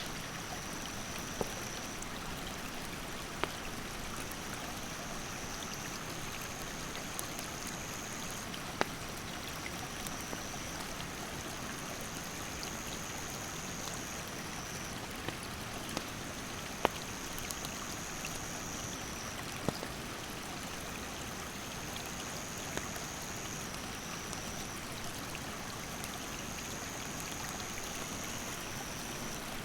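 Stream water rushing steadily, with a wood campfire crackling: sharp scattered pops every few seconds. A high insect buzz runs throughout, stepping between two pitches every couple of seconds.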